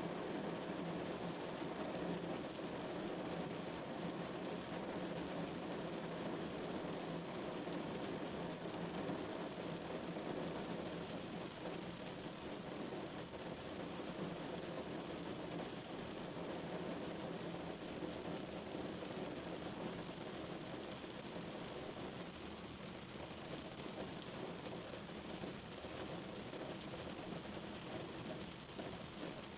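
Steady rain falling on a car, a continuous even patter of drops on the body.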